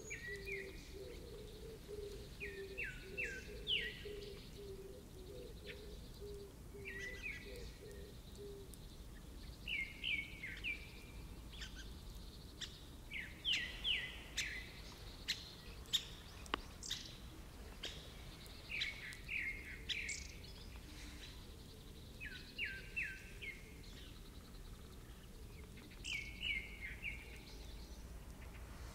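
Songbird calling: short phrases of a few quick stepped notes, repeated every two to three seconds, over a steady outdoor background hiss. A low, rapidly pulsing call runs through the first eight seconds or so.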